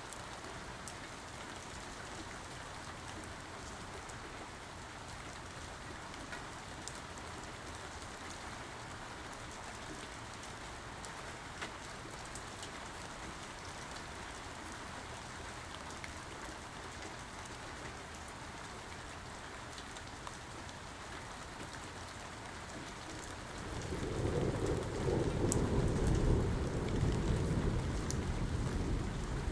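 Steady rain falling, with scattered drops ticking on a surface. Near the end a loud, low rumble of thunder rolls in and keeps going.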